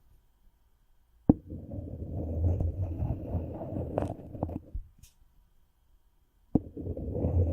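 Friction on a microphone: something is rubbed and scraped against the mic close up, giving a low, rumbling scratch. It comes in two spells, each starting with a sharp tap about a second in and again near the end, with a silent pause of nearly two seconds between them.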